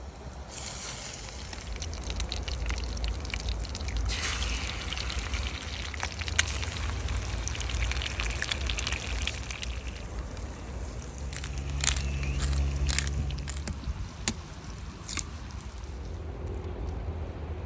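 Camp cooking sounds: wet squishing and pouring of food being handled in a pan, with scattered clicks and knocks over a steady low rumble. A low hum sounds briefly about eleven seconds in.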